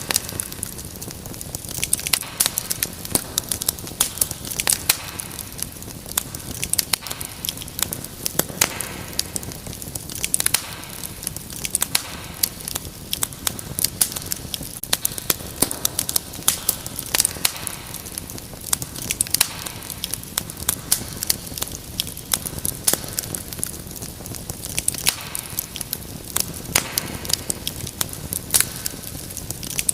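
Wood fire in a fireplace crackling: irregular sharp pops and snaps over a steady low rush of burning.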